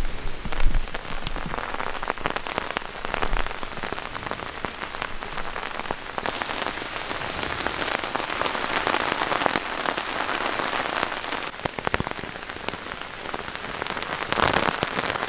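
Heavy rain drumming on a hammock's rain fly overhead: a dense, steady patter of drops on taut fabric.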